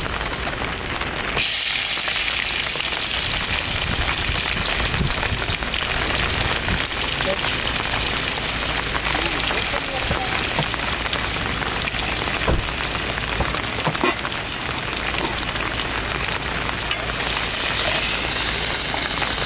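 Food sizzling in hot oil in a pan over a cooking fire: a steady, dense sizzle that starts abruptly about a second in.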